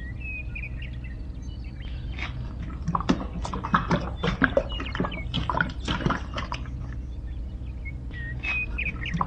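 Short bird chirps over a steady low hum, with a run of rapid sharp clicks and taps in the middle that is louder than the rest.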